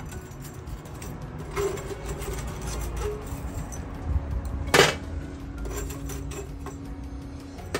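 A metal spoon scooping charcoal out of a metal charcoal stove (jiko): scraping and scattered clinks of spoon on coals and stove rim, the loudest clink about five seconds in.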